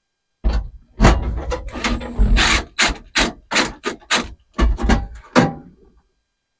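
A hand tool scraping and rasping on metal in a run of about a dozen quick strokes, roughly three a second after a longer stretch of rubbing near the start.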